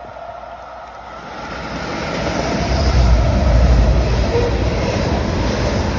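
CSX freight train approaching: a low rumble that swells over the first three seconds and then holds loud and steady.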